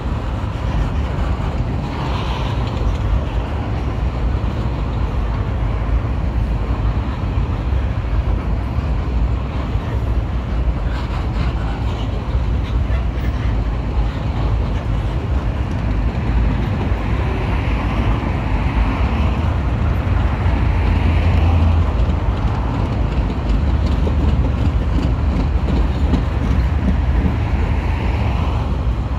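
Freight train wagons rolling past, empty log wagons and then loaded container wagons: a steady rumble of steel wheels on the rails.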